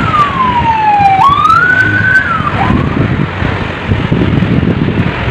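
Strong gusting wind buffeting the microphone. Over it a single whistling tone slides down, jumps up, holds, and drops away about two and a half seconds in.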